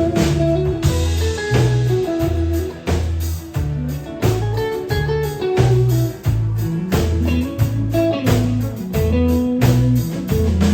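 Country band playing an instrumental break: a guitar picks a melody over bass notes and a steady drum beat.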